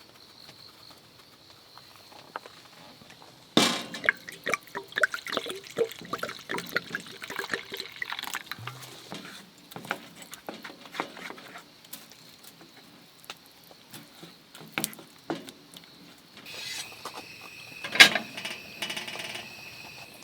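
Camp cooking sounds: utensils and dishes knocking and clattering, with liquid sloshing and being poured. A run of clatter starts with a sharp knock a few seconds in, and a stretch of pouring near the end holds one loud clink.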